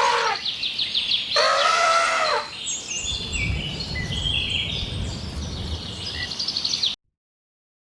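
Small birds chirping and trilling, with one louder, lower pitched animal call about a second and a half in. The sound cuts off abruptly about a second before the end.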